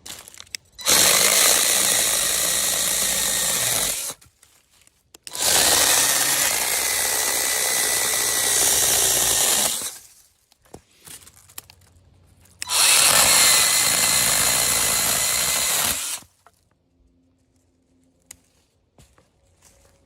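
WORKPRO cordless electric mini chainsaw running in three bursts of about three to four seconds each, its motor and chain giving a steady high whine, with short pauses between.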